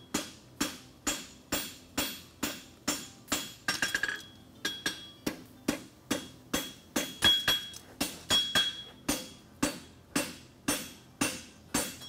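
Blacksmith's hammer striking hot steel horseshoe bar stock on an anvil, about two blows a second, each with a short metallic ring, as the branch of a horseshoe is drawn out; a quick flurry of lighter taps about four seconds in.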